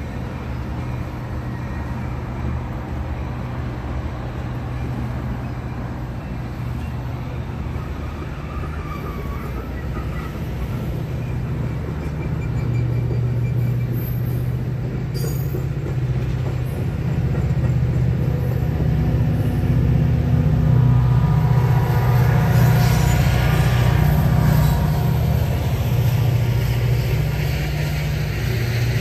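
Metra bilevel commuter train rolling through a grade crossing, with its EMD F40PH diesel locomotive pushing at the rear. The low diesel drone and wheel noise grow louder in the second half as the locomotive passes, then ease off as the train clears.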